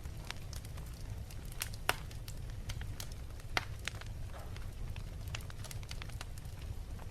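Fireplace fire crackling: irregular sharp snaps and pops over a steady low rumble, with two louder pops about two and three and a half seconds in.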